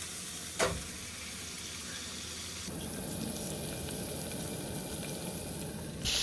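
Beef burger patties sizzling steadily in a hot pan, with one sharp knock just over half a second in.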